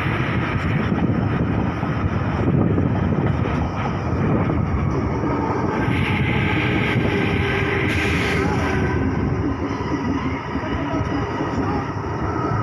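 Double-deck electric suburban train passing close by: a steady rumble and rattle of wheels on the rails, with brighter hissing surges about six and eight seconds in. A faint higher whine comes in near the end.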